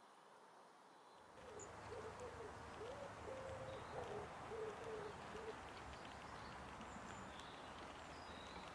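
A dove cooing: a run of low notes from about a second in that stops about halfway through. Faint high chirps of small birds and an outdoor hiss lie underneath.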